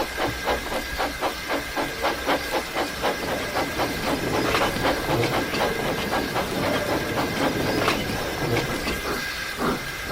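Steam locomotive chuffing at a steady beat of about three or four puffs a second, with steam hissing and a steady high tone underneath; the beats blur together midway and pause briefly near the end.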